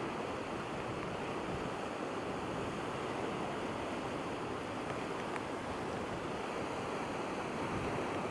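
Steady wash of waves lapping on the shore, with no distinct bird calls.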